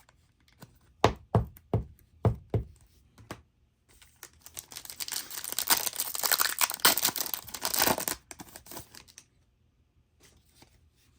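A few sharp knocks, then a trading-card pack wrapper torn open and crinkled for about five seconds.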